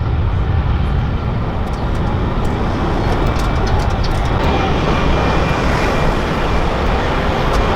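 Jet airliner engines running: a loud, steady rush of noise with a deep rumble, turning brighter from about halfway through as a faint high whine comes in.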